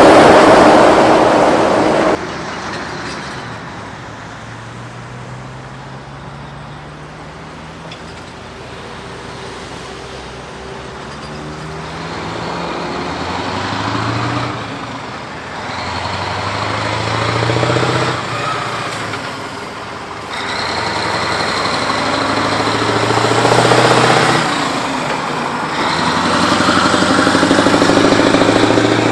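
Mack truck's diesel engine pulling away, its note rising and dropping back several times as it shifts up through the gears, getting louder as it comes closer. A louder vehicle sound cuts off abruptly about two seconds in.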